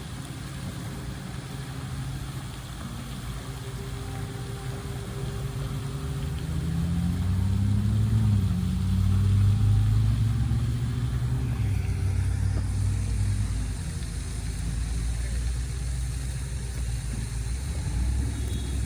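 A motor vehicle's engine running nearby. It grows louder about a third of the way in, with its pitch rising, then eases off again.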